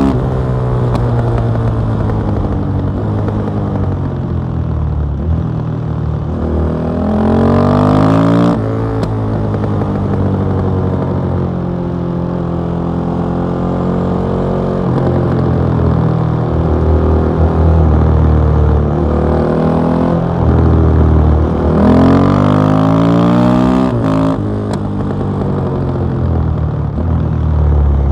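KTM 660 SMC's single-cylinder engine through an Akrapovic exhaust, heard onboard while riding. The revs climb hard and drop off sharply twice, about a third of the way in and again near the end, with steadier running between.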